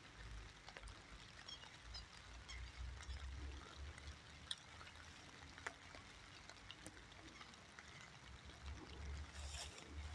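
Faint light rain, with scattered small drips and ticks over a low, uneven rumble on the microphone.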